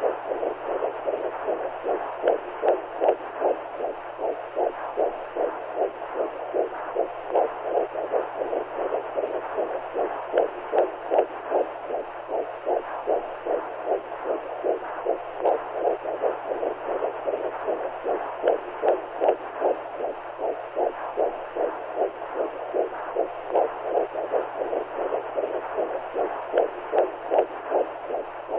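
Womb-sound white noise: a muffled heartbeat heard as if from inside the mother's womb, steady rhythmic whooshing pulses over a constant low hum and soft hiss.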